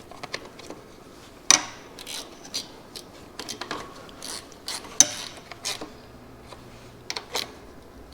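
Metal hand tools clicking and clinking as a fastener is tightened down during reassembly of a go-kart's small-engine carburetor, with two sharper metallic knocks, about a second and a half in and at about five seconds.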